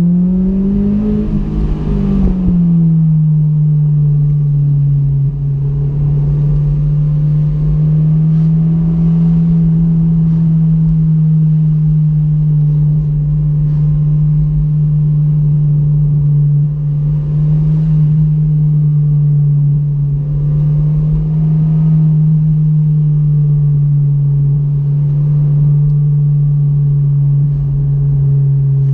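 Honda S2000's four-cylinder VTEC engine and exhaust pulling the car along the road. The pitch rises briefly, drops back about two seconds in, then holds steady over a low road rumble.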